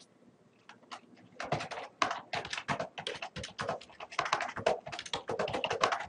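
Typing on a computer keyboard: a few scattered keystrokes, then quick, steady typing from about a second and a half in, several keys a second.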